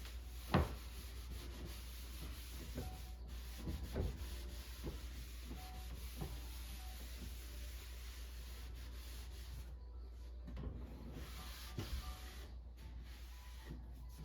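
Quiet rubbing and handling noises with scattered light knocks and taps, a sharp click about half a second in, over a faint steady hiss.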